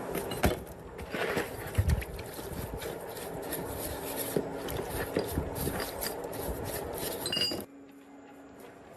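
Hand work on metal parts: clinking, knocking and scraping, with a few sharp knocks. Near the end it cuts off suddenly to a faint steady background.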